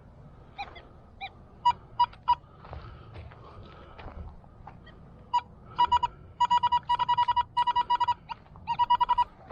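Metal detector beeping while pinning down a buried target, a penny: three short single beeps about two seconds in, then rapid runs of beeps from a little past five seconds.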